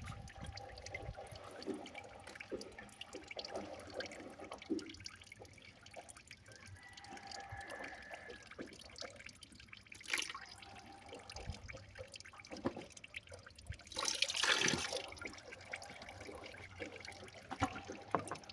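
Freshly cracked petrol, mixed with water, dripping and trickling faintly from a waste-oil pyrolysis plant's outlet into a collecting container. A brief louder rush comes about fourteen seconds in.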